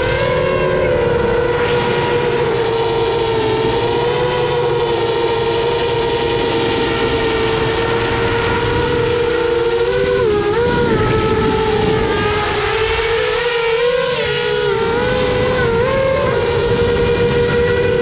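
The EMAX ECO II 2806 1500kv brushless motors of a 7-inch FPV quadcopter running in flight, heard from the onboard GoPro: a steady high whine over a rush of air. The pitch dips and wobbles briefly a little past the middle, and again a few seconds later, as the throttle changes.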